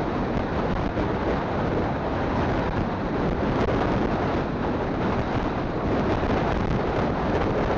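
Wind rushing and buffeting over a phone microphone on a moving motorcycle, a steady loud rumble with the bike's road and engine noise blended underneath.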